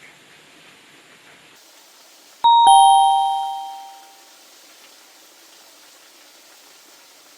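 A two-note "ding-dong" chime: a higher note, then a lower one a fraction of a second later, both ringing out and fading over about a second and a half, over a faint steady hiss.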